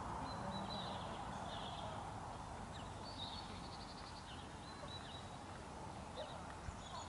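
Faint birdsong: small birds chirping and trilling again and again, over a steady hiss that fades over the first couple of seconds.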